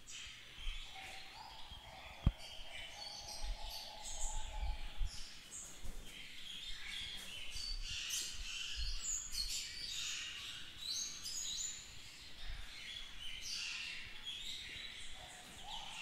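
Birds chirping and singing in many short, overlapping phrases, with one sharp click about two seconds in and low rumbles now and then.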